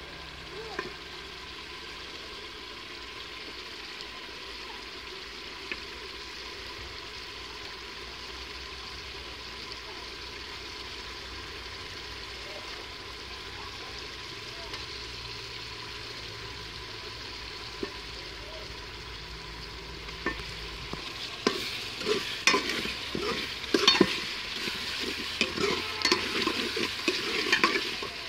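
Potato and eggplant frying in spiced oil in an aluminium pot, a steady sizzling hiss with a few isolated clicks. About twenty seconds in, a metal spoon starts stirring, scraping and clanking against the pot while the sizzle grows louder.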